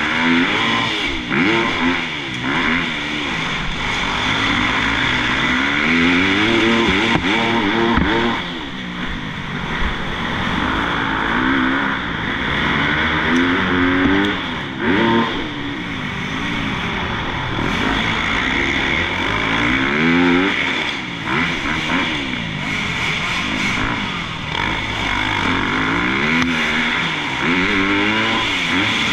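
Motocross bike engine revving hard and easing off again and again, its pitch rising and falling every couple of seconds.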